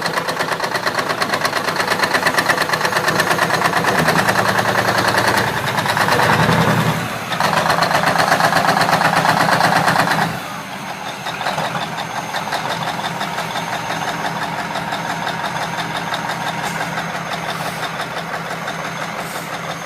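Large diesel engine running after a cold start with a rapid, even pulsing; it runs louder for the first half, with a brief dip in the middle, then drops to a quieter, steady idle.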